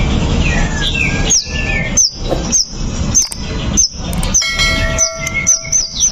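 White-rumped shama singing: a string of sharp, high, downward-sweeping notes mixed with whistles, with a longer held note about halfway through. A low rumble sits under the first two seconds.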